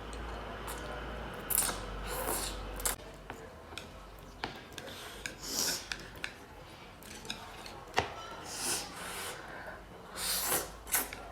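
Close-up eating sounds of spicy instant noodles: short hissing slurps and sucking breaths, broken by sharp clicks of a utensil against the dish, at irregular intervals.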